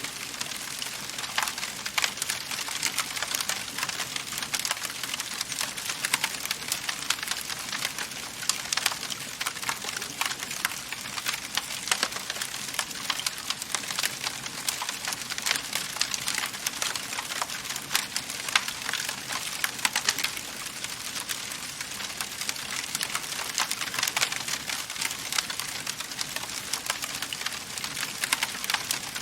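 Wood fire burning in a fireplace, crackling steadily with frequent small pops and snaps over a soft hiss.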